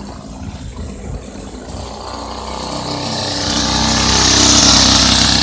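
Minibike's small engine running and growing steadily louder as it comes closer, loudest near the end.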